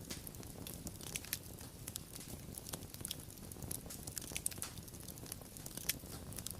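Wood fire crackling, with irregular sharp pops and snaps over a low steady rumble of flames.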